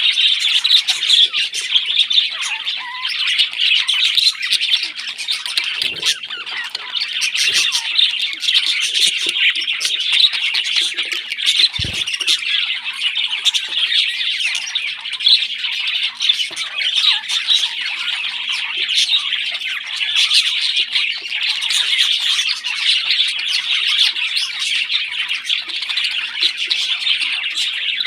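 Parrot chicks squawking continuously in rapid, raspy chatter, the begging calls of young parrots being fed. A single low knock about twelve seconds in.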